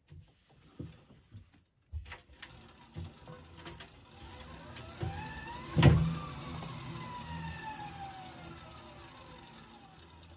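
Hoover New Wave Plus washing machine motor whining down at the end of its final spin. A few knocks come first, then the whine rises briefly. A loud clunk comes about six seconds in, after which the whine falls steadily in pitch and fades as the drum slows.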